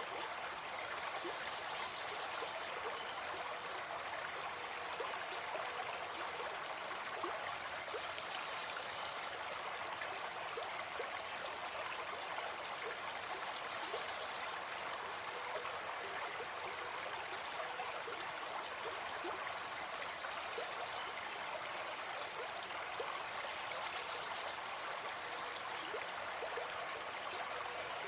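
A gentle forest stream flowing: a steady, even rush of running water.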